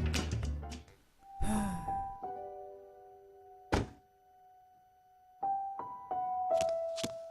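Soundtrack of sound effects and piano: a dull thump about a second and a half in, a few held piano notes, a sharp click, a short silence, then piano notes picking up again with two more clicks near the end.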